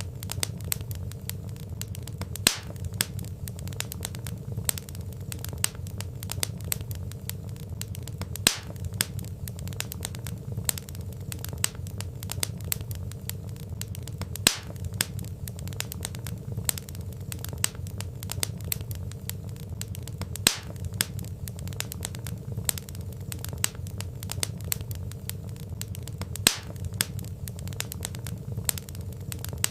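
Wood fire crackling: dense small pops and snaps of burning logs over a steady low rumble of flame, with a sharper, louder pop about every six seconds.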